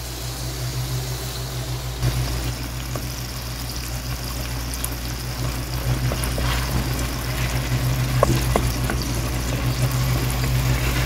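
Beaten eggs sizzling as they are poured into a wok of hot tomato and onion masala and stirred through with a wooden spatula, with a few light knocks of the spatula against the pan. A steady low hum runs underneath.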